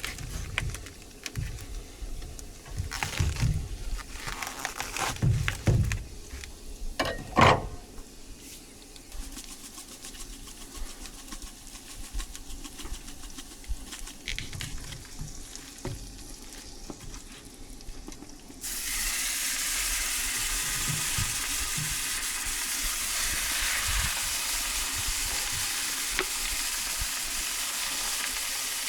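Scattered knocks and handling thumps. About two-thirds of the way in, food goes onto a hot cast iron griddle and starts sizzling steadily.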